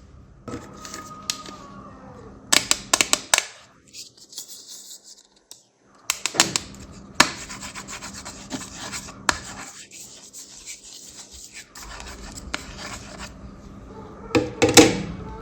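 Hands working a fidget board toy: rubbing and scratching over its surfaces, broken by clusters of sharp clicks and taps, with a loud burst of clicks near the end.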